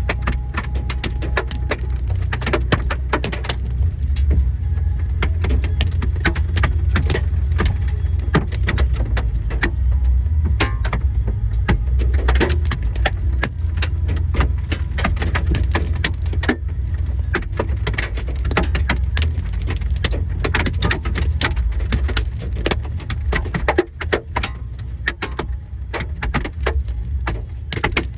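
Hailstones hitting a vehicle: a dense, irregular clatter of hard impacts over a steady low rumble.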